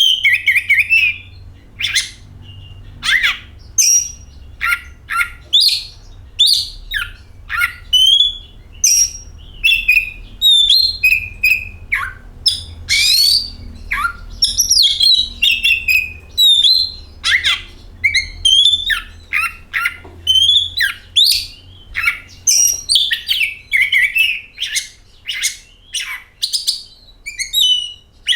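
Oriental magpie-robin (kacer) singing: a rapid, varied run of loud whistled and chattering phrases, many sliding up or down in pitch, broken by short pauses.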